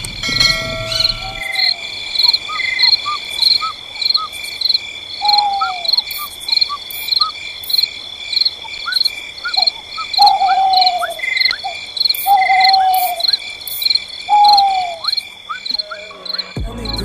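Night chorus of insects: crickets chirping in a steady pulse about twice a second over a continuous high trill. Several short, falling calls from another animal and small rising chirps sound over it. Music comes in near the end.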